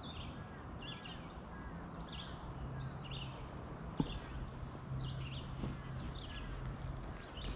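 Birds chirping repeatedly, short high notes about once or twice a second, over a steady low hum, with one sharp click about four seconds in.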